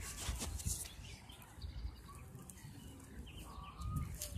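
Faint, short bird calls, a few times, over low wind rumble on the microphone and some handling clicks.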